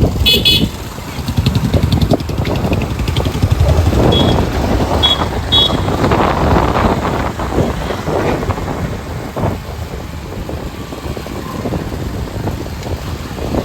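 Motorcycle running along a road, a steady engine and road noise, with a few short high toots, one just after the start and a few more between about four and six seconds in.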